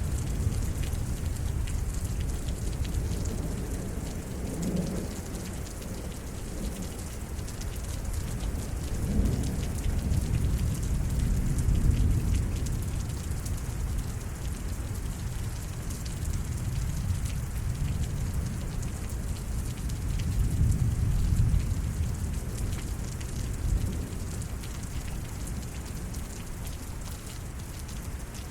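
Steady rain falling on surfaces in a thunderstorm, with low thunder rumbling underneath that swells twice, about a third of the way in and again about three quarters through.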